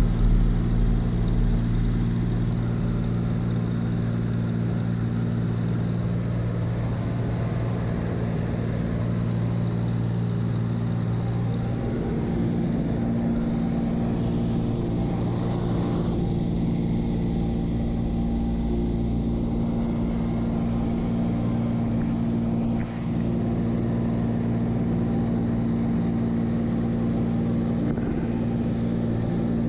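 Seaplane's propeller engine droning steadily in flight, heard from inside the cabin. The engine note shifts slightly about halfway through.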